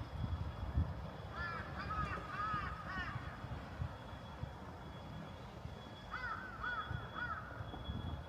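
A corvid giving two runs of harsh caws: about six calls a little after the start and four or five more near the end, over a low, steady rumble.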